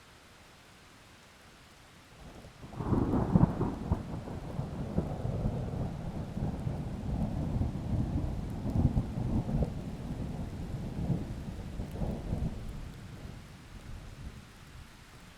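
Steady rain with a thunderclap breaking about three seconds in, then a long rolling rumble with several swells that fades away near the end.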